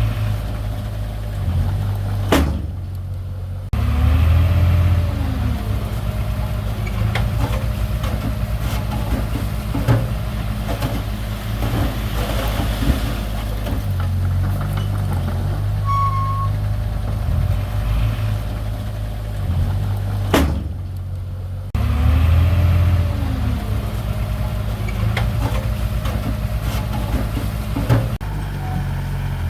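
Diesel engines of heavy earthmoving machinery running steadily, with the revs rising and falling briefly a few times.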